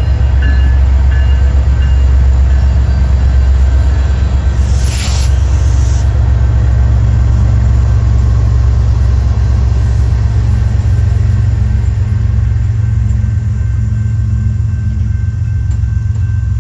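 Train rumbling steadily as it rolls by, with a short hiss about five seconds in.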